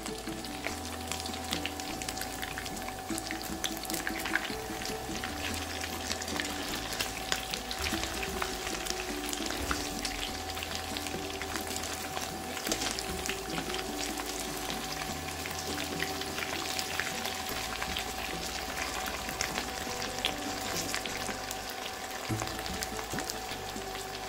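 Pieces of homemade cheese shallow-frying in hot oil in a pan: a steady crackling sizzle.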